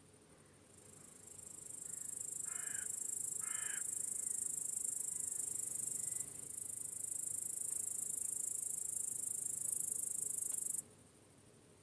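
Crickets chirping in a dense, very high-pitched trill that swells in about a second in and cuts off suddenly near the end. A bird gives two short, harsh calls a second apart a few seconds in.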